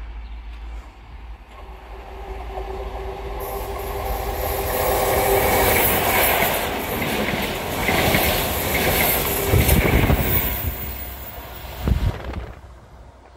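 A GWR Class 43 HST (High Speed Train) set passes close by, its diesel power cars and wheels building up to a loud rush of engine, wheel and rail noise with clickety-clack over the joints. A low thump comes near the end as the train clears, and then the sound dies away quickly.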